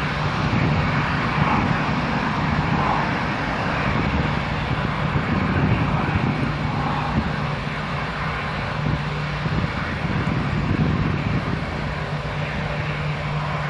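Jet airliner engines running: a steady, even rushing noise with a low hum under it.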